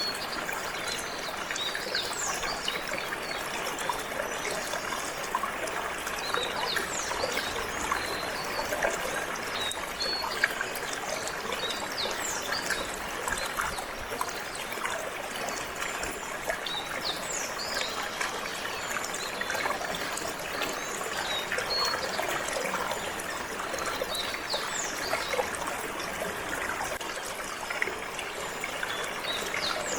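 Water trickling and flowing steadily, like a small stream. Short, high bird chirps come and go throughout.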